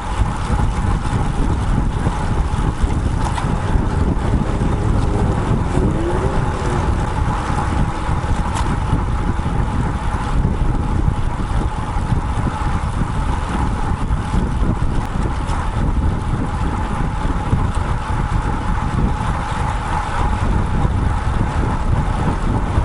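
Wind rushing steadily over a bike-mounted action camera's microphone while a road bike is ridden along, with a constant whistle-like tone running under the rumble.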